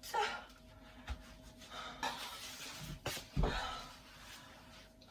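A few soft knocks and rustles of things being handled, with a louder dull thump about three and a half seconds in.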